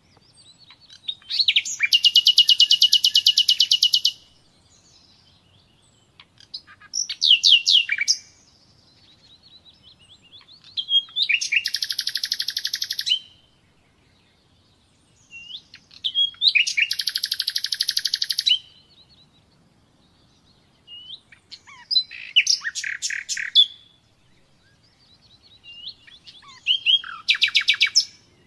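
Common nightingale singing: six phrases of fast, rapidly repeated high notes, each lasting one to three seconds, separated by pauses of about two seconds.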